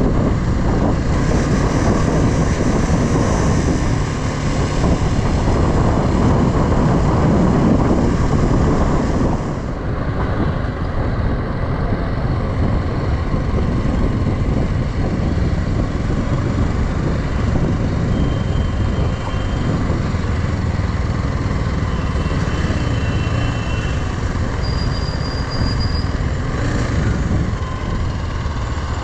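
Motorcycle on the move: engine running under heavy wind rush, with a slight drop in loudness about ten seconds in.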